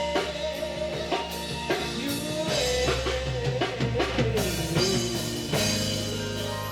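Live worship band playing: drum kit and bass under keyboard chords and a wavering lead melody. The drum strokes stop a little past four seconds in, leaving held chords.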